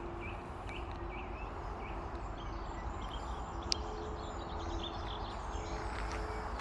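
Steady low outdoor rumble with a run of short high bird chirps in the first second and a half, fainter chirps later, and one sharp click a little past halfway.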